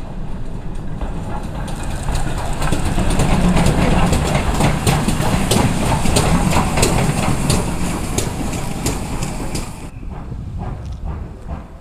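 Steam locomotive moving past at low speed: a steady rush of noise with many sharp clicks and knocks from the wheels and rail, building over the first few seconds and cutting off sharply about ten seconds in.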